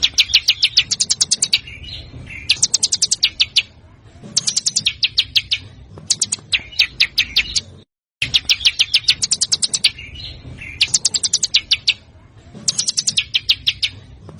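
A songbird's masteran recording of harsh, rapid-fire 'tembakan' notes. The notes come in bursts of a second or so, about ten notes a second, with short pauses between. The recording loops: after a brief gap about eight seconds in, the same run of bursts plays again.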